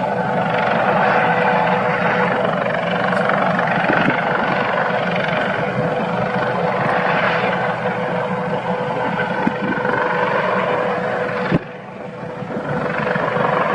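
Helicopter flying, its rotor and turbine making a steady drone with a constant whine. Near the end there is a click and a sudden drop in loudness, then the sound builds back up.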